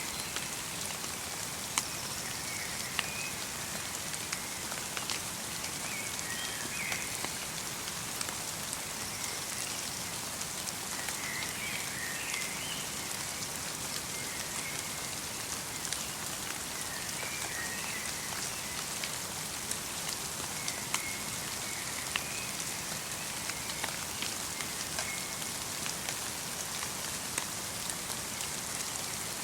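Light rain falling in a winter forest: an even hiss with scattered sharp drip ticks. Small birds give short chirps every few seconds.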